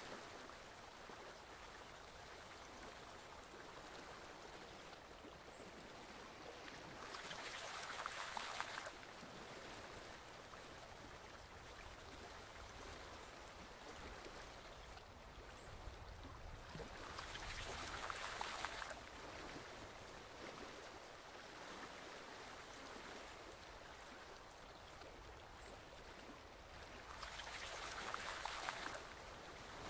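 Forest stream flowing steadily, a continuous rush of water that swells louder for a couple of seconds about every ten seconds.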